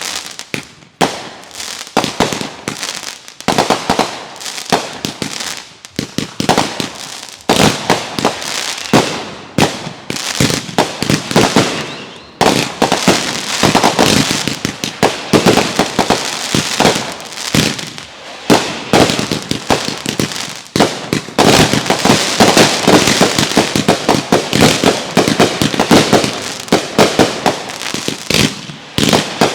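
Consumer fireworks going off in rapid succession: loud repeated bangs mixed with crackling, becoming a dense barrage in the second half.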